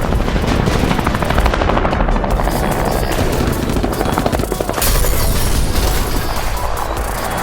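Action-movie sound effects: rapid machine-gun fire and a helicopter's rotor, over background music, with a louder burst about five seconds in.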